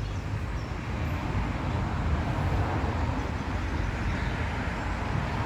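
Steady low rumble of distant road traffic, with no distinct bird calls standing out.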